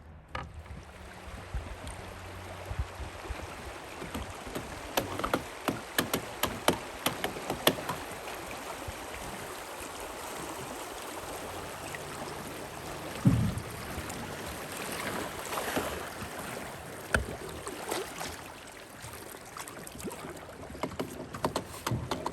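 River water running steadily, with scattered short clicks and knocks and one louder low thump about thirteen seconds in.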